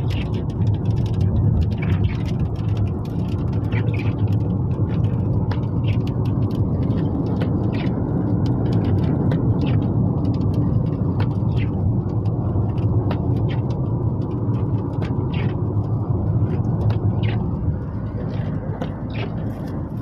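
Hailstones striking a car's roof and windscreen in irregular sharp ticks, several a second, over the steady low rumble of the car driving, heard from inside the cabin.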